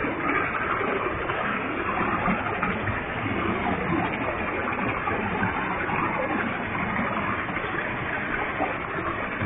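Waterfall with a heavy flow of water crashing down, a steady rushing roar.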